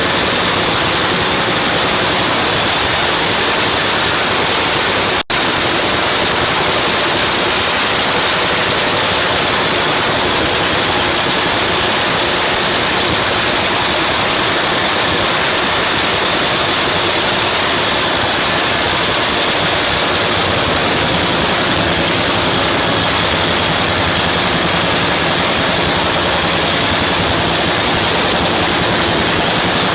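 Nitro Funny Car's supercharged V8 running during an engine warm-up, loud and steady, with a brief break in the sound about five seconds in.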